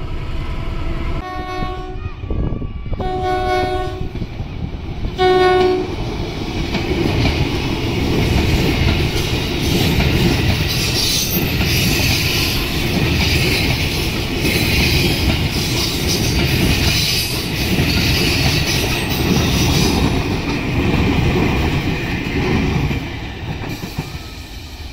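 Electric commuter train sounds three horn blasts, the last one short and the loudest. It then passes close by with a loud rumble of wheels clattering over the rail joints, which fades near the end.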